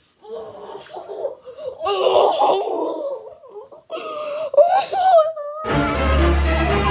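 A young boy laughing and squealing with excitement. Music with a heavy bass comes in about a second before the end.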